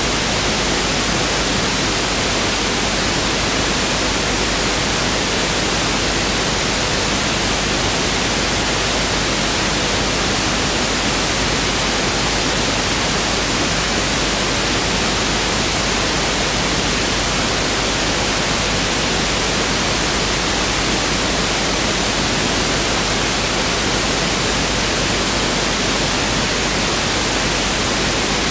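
Pink noise test signal: a steady, even hiss with equal energy per octave, unchanging throughout.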